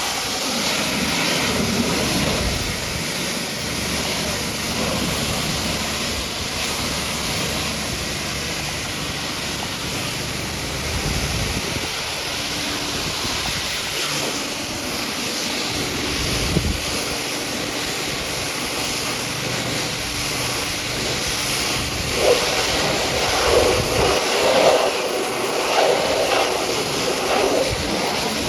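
High-pressure water jet from a pressure washer spraying a muddy truck, a steady hiss of water. Over the last few seconds the spray sound turns choppier.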